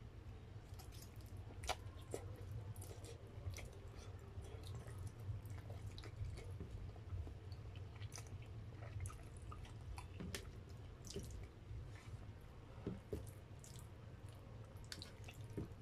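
Close-up chewing of spaghetti, with many short wet mouth smacks and clicks scattered through, over a steady low hum.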